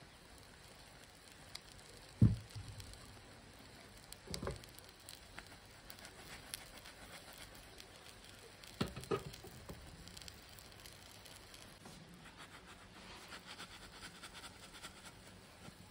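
Faint crackling sizzle of an egg omelet cooking in a nonstick pan, broken by a few knocks of the cookware. The loudest knock comes about two seconds in, another just after four seconds, and a quick double knock around nine seconds.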